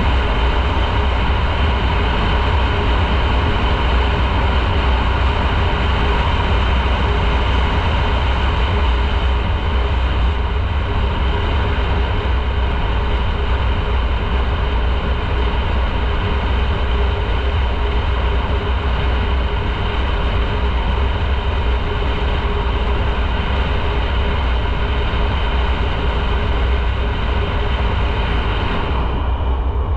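Motorcycle riding at a steady speed: the engine runs evenly under a heavy, constant low rumble of wind and road noise.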